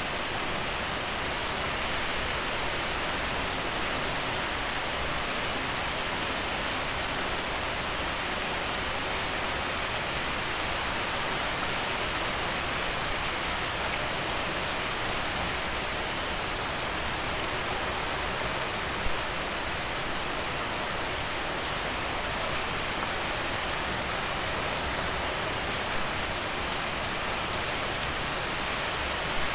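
Steady heavy rain falling on surfaces, an even hiss with scattered sharper drop hits and one louder tap about two-thirds of the way through.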